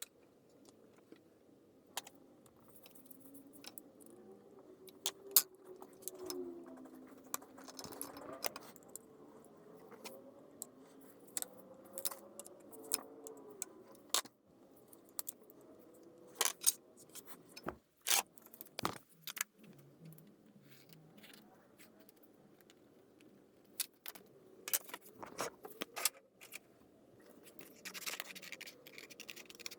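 Small metal parts and tools clicking, clinking and scraping at irregular intervals as an antique electric fan is reassembled by hand.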